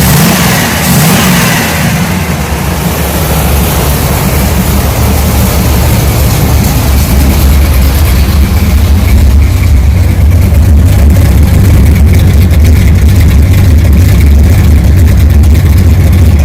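The 1976 Chevy Nova's built 350 small-block V8 running loud, busier in the first couple of seconds and then settling into a steady run.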